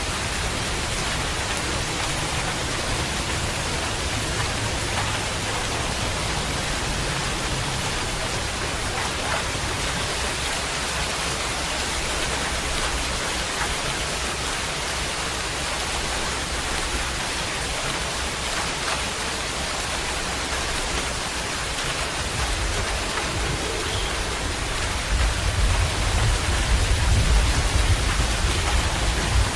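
Steady rain falling, an even hiss of drops. About 25 seconds in, a low rumble of thunder rolls in and grows louder.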